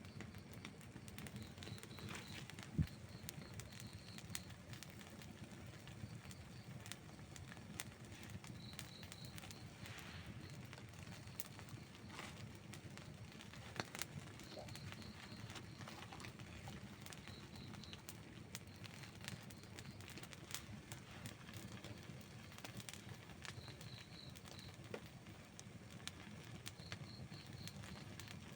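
Outdoor wood campfire burning, with scattered small crackles and pops over a low steady rumble and one sharp pop about three seconds in. Short bursts of high chirping recur every few seconds in the background.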